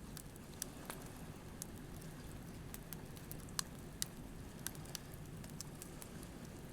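Wood campfire crackling, with a scatter of sharp irregular pops, over a steady low wash of surf.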